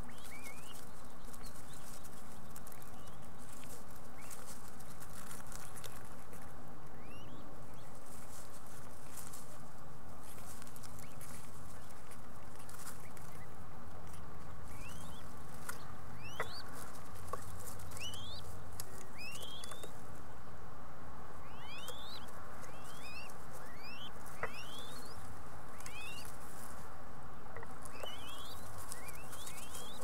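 Short, high, quickly rising bird chirps, scattered at first and then coming several a second from about halfway through, over a steady hiss.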